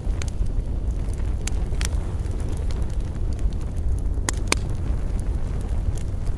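Wood fire crackling: scattered sharp pops over a steady low rumble, with two louder snaps in quick succession about four seconds in.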